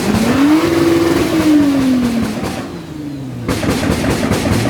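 Car engine revved: the pitch climbs, holds near the top briefly, then falls away as the throttle is released. From about three and a half seconds in comes a rough, crackling noise.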